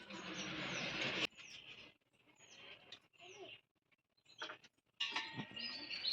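Small birds chirping: repeated short, high calls sliding downward. A hissing noise runs through about the first second, and a busier mix of sound comes in near the end.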